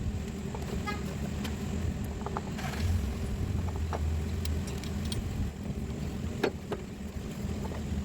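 Scattered metallic clinks and taps of hand tools on the A/C compressor's mounting bolts, with a brief run of quick clicks about a second in, over a steady low hum.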